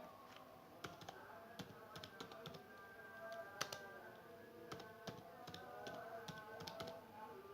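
Faint computer keyboard typing, irregular key clicks, over quiet background music with steady held notes.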